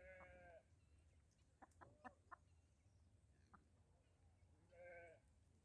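Two faint short calls from a farm animal, one right at the start and one near the end, with a few soft clicks between them.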